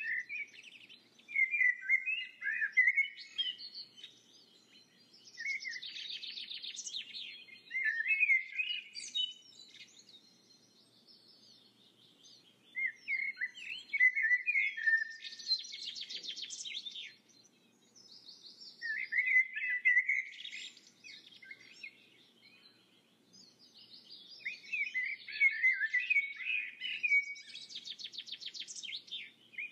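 Songbird singing: phrases of quick chirps and fast trills, repeated every few seconds with short pauses between.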